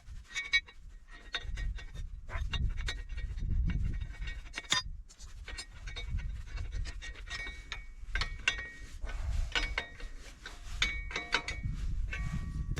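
Steel parts clinking, knocking and scraping as a welded bracket plate is worked onto its hinge on a concrete mixer, with short metallic rings, over a low rumble.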